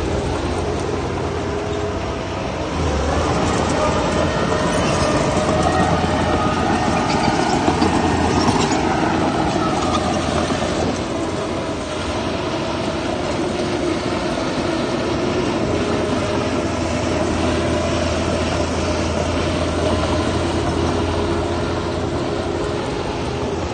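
Heavy diesel engines of earthmoving machinery at work, running steadily. About three seconds in one engine revs up and pulls harder for several seconds, then settles back to a steady run.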